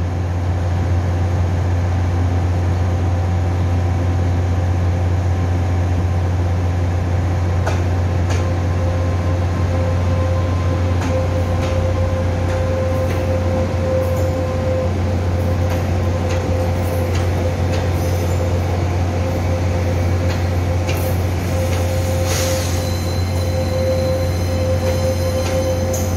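Electric multiple unit train passing: a steady rumble with a humming tone and scattered clicks of the wheels over rail joints, then a high-pitched wheel squeal setting in near the end.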